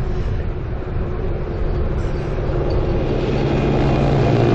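Wind buffeting the microphone of a moving bicycle, a dense low rumble, with a steady low hum growing louder near the end.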